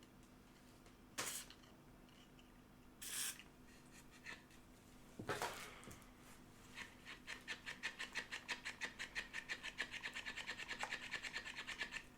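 Two short hisses of WD-40 spray, then a Sonicake volume pedal's treadle rocked back and forth, its pivot rubbing and creaking in a fast, regular rhythm several times a second; still stiff and noisy after the lubricant.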